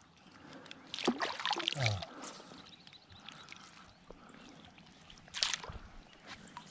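Water splashing in short bursts as a hooked fish thrashes at the surface and is landed in a net, with the loudest splashes about a second in and again near the end.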